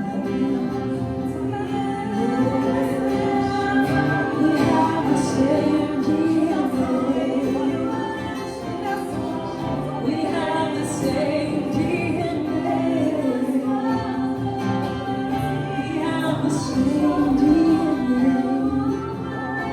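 Worship music: a female voice singing long, gliding phrases over a steady instrumental backing, with other voices joining in.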